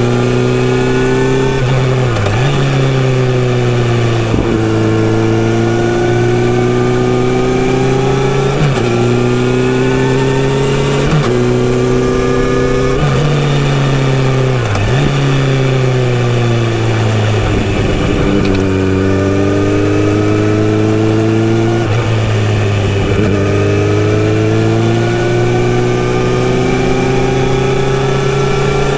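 Kawasaki Z900RS inline-four running through a full-system sports exhaust while riding. Its pitch climbs steadily under throttle and dips sharply every few seconds, as it does at gear changes or throttle roll-offs, over a constant rush of wind.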